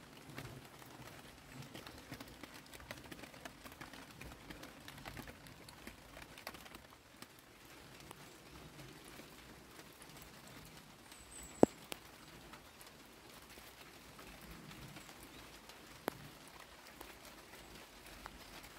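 Light rain pattering, with scattered drops ticking on wet leaves and a glass tabletop. A single sharp knock stands out about two-thirds of the way in, with a fainter one a few seconds later.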